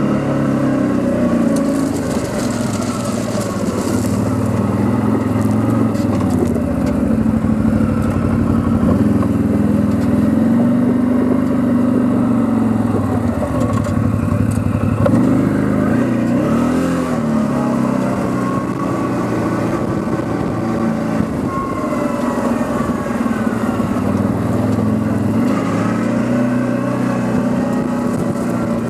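Quad bike (ATV) engine running under way, its pitch rising and falling again and again as the throttle opens and closes.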